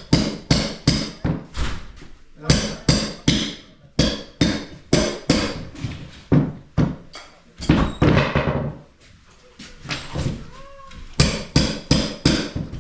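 Hammer blows struck in quick runs, about two to three a second, pausing briefly near the end before a few more strikes.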